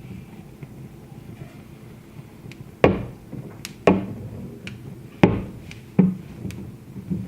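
Wood fire crackling, with four loud sharp pops and several fainter clicks over a steady low background.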